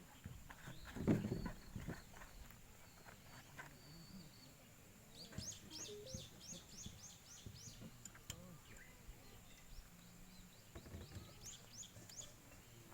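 A bird calling outdoors with two quick runs of high, downward-slurred notes, about five a second, the first in the middle and the second near the end. About a second in there is a louder low knock or rustle, and a faint steady high tone runs underneath.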